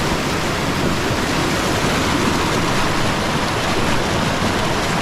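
Loud, steady rush of a mountain river flowing and tumbling over rocks.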